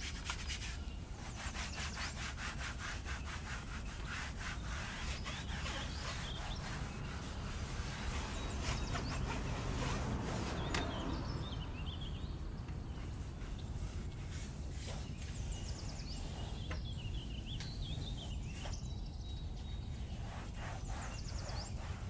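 Brush scrubbing in rapid back-and-forth strokes during car detailing, with birds chirping in the background later on.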